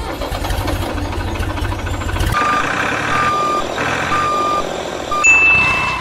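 Truck sound effect: an engine running, then a reversing alarm beeping about once a second over it from a little over two seconds in. A higher steady tone comes in near the end.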